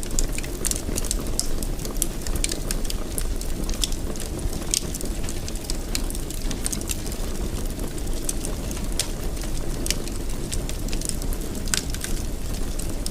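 Wood fire burning in a fireplace: a steady low rumble of the flames with dense, irregular crackling and a few sharper pops.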